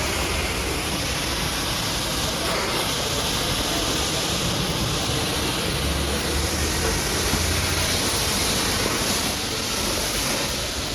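High-pressure washer jet spraying water steadily, a continuous even hiss.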